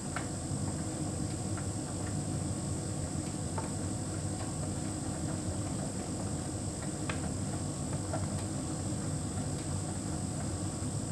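Hotpoint heat pump tumble dryer running: a steady low hum with a thin steady high tone above it, and a few faint ticks scattered through.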